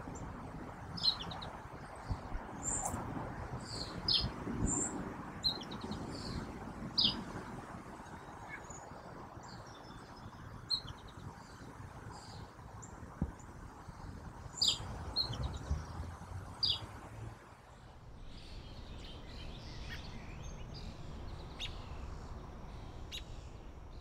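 Small songbirds chirping: short, sharp calls scattered through, a few of them louder, over a steady low background rumble.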